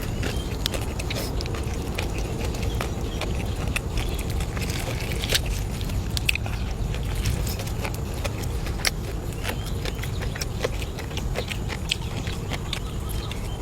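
A person eating close to the microphone: chewing and crunching, heard as many small irregular clicks, over a steady low rumble.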